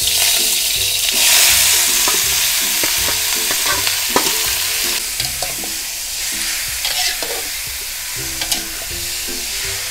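Diced pork belly hitting hot oil in a wok and sizzling, the sizzle strongest about a second in and then easing a little. From about halfway, a metal spatula scrapes and clicks against the pan as the pork is stir-fried.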